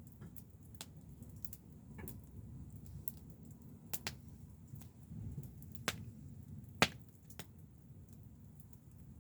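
Wood fire crackling and popping: sharp, irregular snaps over a low, steady rumble, with one loud pop about seven seconds in.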